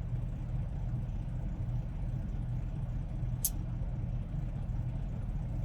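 Semi truck's diesel engine idling steadily, a low rumble heard from inside the cab. A single brief high-pitched tick comes about three and a half seconds in.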